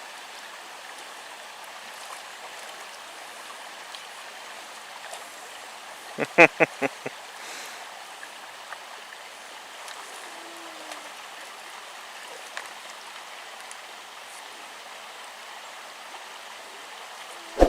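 Shallow river flowing steadily, an even rush of water. About six seconds in comes a short burst of five or six quick, loud pitched sounds.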